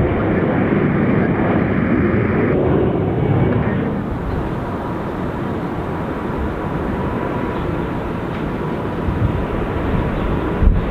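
Airliner jet engines running at takeoff: a steady rumbling rush with a faint steady whine in it, easing a little about four seconds in, with a brief knock near the end.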